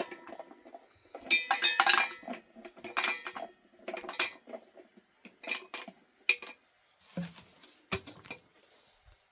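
Metal pots, dishes and utensils clinking and clattering in a string of irregular knocks, some ringing briefly. The knocks come thick at first, then space out and stop about eight seconds in.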